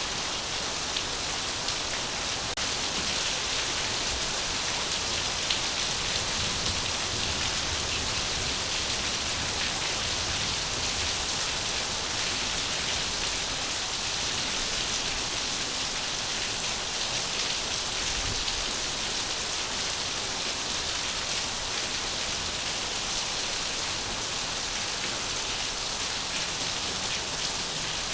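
Steady rain falling: an even, unchanging hiss with no breaks.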